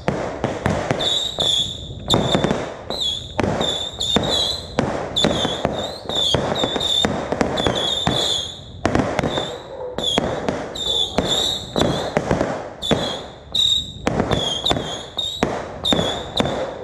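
Fireworks going off in a rapid, irregular string of sharp bangs, about two or three a second, with a high wavering whistle recurring through them.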